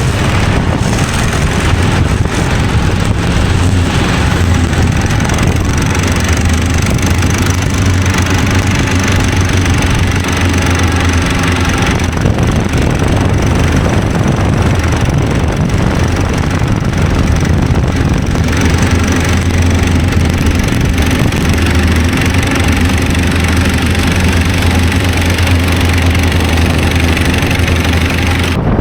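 Snowdog tracked snow machine's small engine running steadily under way, a constant low drone over a steady rushing noise.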